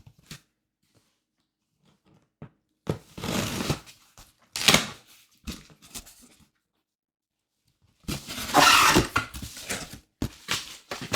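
Packaging being torn open and handled: a cardboard shipping box and its packing material tearing and rustling in a few separate bursts, the longest and loudest near the end, with small clicks and knocks between.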